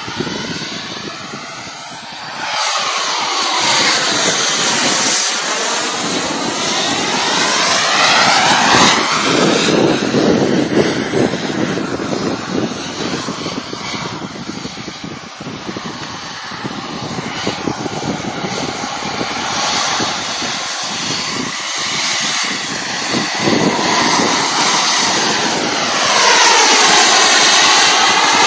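Fighter jets flying past, a loud continuous jet noise that swells and sweeps in pitch with each pass, several times over. It is loudest near the end.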